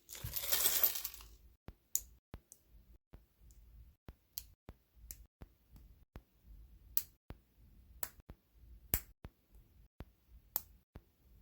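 A short rustle, then small LEGO plastic pieces clicking sharply as they are handled and pressed together, in scattered single clicks about once a second or less.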